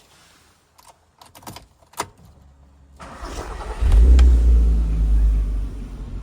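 Audi TT's 3.2 V6 engine starting: a few clicks, then about three seconds in the starter cranks briefly and the engine catches with a loud flare of revs, settling to a lower idle near the end.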